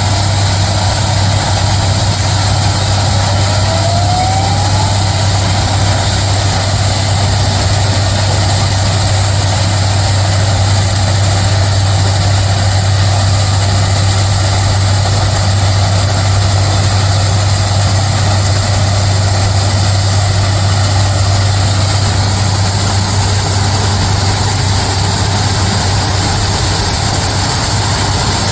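Loram SBC-20 shoulder ballast cleaner's diesel machinery running steadily with a constant deep drone while it works the track.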